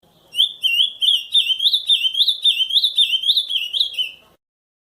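Ultramarine grosbeak (azulão) singing the Camaquã song type: a quick string of slurred whistled notes, each sliding up and down, about three a second. The phrase starts a moment in and stops abruptly near the end.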